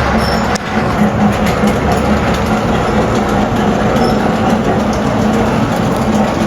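A train running nearby: steady, loud mechanical noise with a constant low hum. A deeper low rumble drops away about half a second in.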